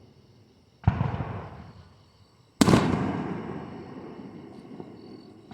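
Two aerial fireworks bursting, about a second in and again a couple of seconds later, the second one louder. Each bang fades off in a long echo lasting a second or two.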